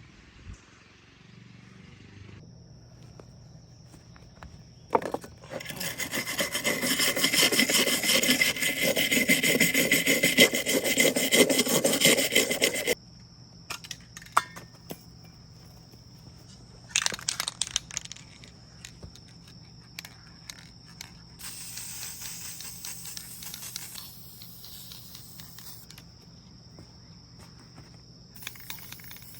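Fast, rhythmic rasping, like hand scraping or sanding, loud for about seven seconds and then in shorter, quieter spells, over a faint steady high whine and low hum.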